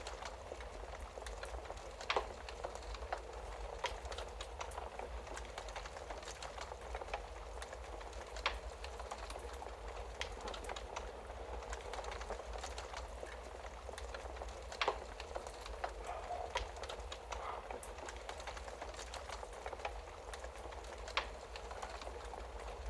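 Wood fire crackling in a fireplace: a steady hiss of small crackles with four louder sharp pops, about one every six seconds, over a low steady rumble.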